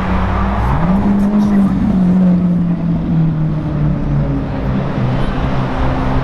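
Supercar engine revving: its pitch climbs quickly about a second in, then sinks slowly as it eases off.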